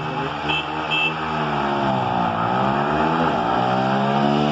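Two 250 cc single-cylinder motorcycles, a Honda Twister and a Honda Tornado, running hard together. Their engine pitches rise and dip as they accelerate through the gears. Two short high beeps sound near the start.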